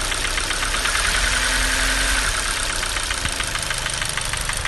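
Hyundai/Kia G4NA 2.0 engine idling with a fast, even ticking knock from the top of the engine near the first cylinder and the exhaust camshaft. The knock persists after a new timing chain and cam phaser, with the phaser's control valve found good.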